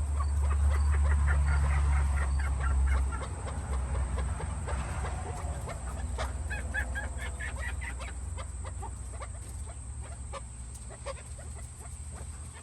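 Chukar partridges calling in rapid clucking series, two bouts of quick repeated notes. A low rumble underlies the first few seconds.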